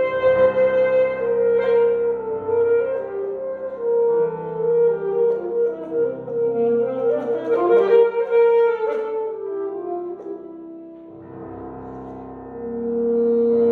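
Alto saxophone playing a slow, sustained melody with piano accompaniment. The music softens about ten seconds in, then the saxophone swells on a long held note near the end.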